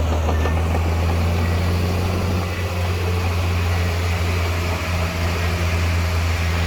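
Heavy earthmoving machine's diesel engine running steadily, a constant low drone.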